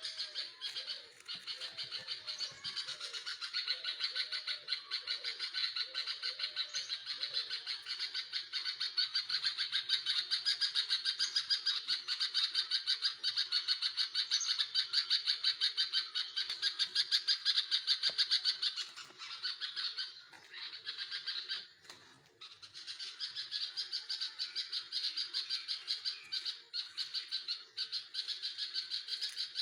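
Nestlings calling in the nest: a continuous, rapid, squawky chirping chorus that falters and briefly drops out about two-thirds of the way through, then resumes.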